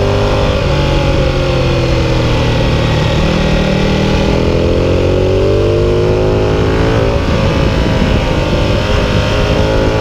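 Ducati 1299 Panigale's Superquadro V-twin engine pulling in third gear through a long corner. The revs dip briefly about a second in, then climb steadily, with another small dip about seven seconds in before rising again.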